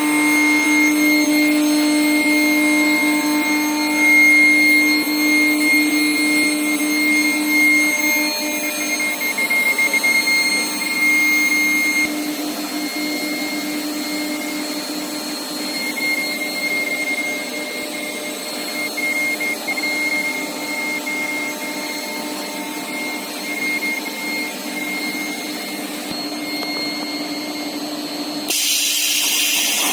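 Steel pipe induction annealing line running: a steady machine hum with a fixed higher whine, easing a little partway through. A bright hiss comes in near the end.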